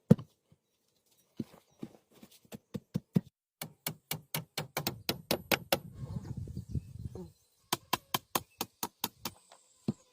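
A run of sharp knocks and thuds, coming in quick, fairly even runs of about four a second with short pauses between.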